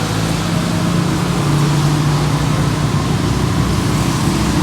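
A steady low mechanical hum over an even hiss, its drone dropping slightly in pitch about a second and a half in.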